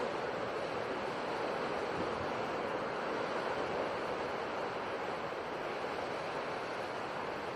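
Sea surf making a steady, even rushing noise, with no separate wave breaks standing out.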